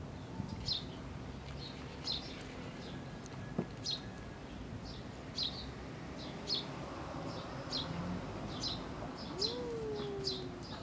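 A bird repeatedly giving short, high, down-sliding chirps at irregular intervals of about half a second to a second, over faint outdoor background noise.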